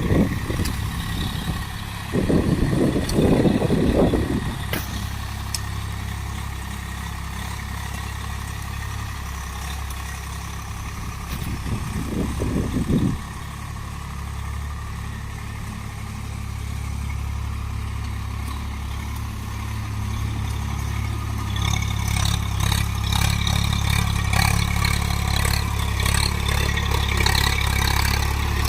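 Tractor diesel engine running steadily, picking up a little after about twenty seconds, with a clattering rattle building over the last several seconds.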